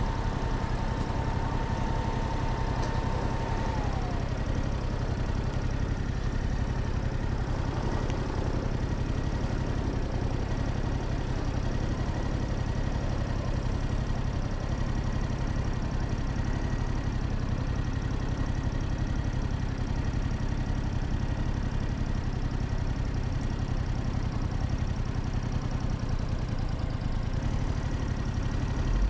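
Motorcycle engine idling steadily at an even pitch, with a thin tone that slides down and fades about four seconds in.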